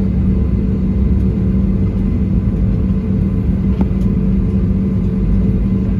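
Cabin noise inside an Airbus A320neo airliner: a steady low rumble of engines and airflow with a constant hum. A faint click about four seconds in.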